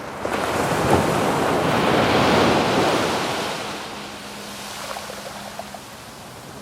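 A wave breaking on a sandy beach. The surf rushes in quickly, peaks about two seconds in and washes out over the next two seconds.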